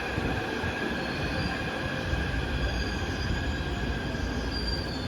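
Taipei Metro train at a station platform, running with a steady mechanical noise and high squealing tones; a fainter, higher whine comes in near the end.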